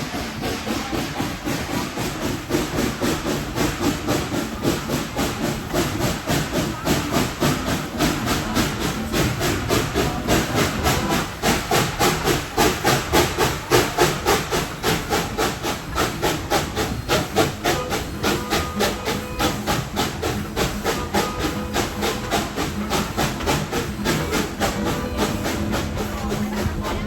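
Tweetsie Railroad No. 190, a narrow-gauge steam locomotive, working with a steady, rapid run of hissing exhaust chuffs. The chuffs grow louder toward the middle.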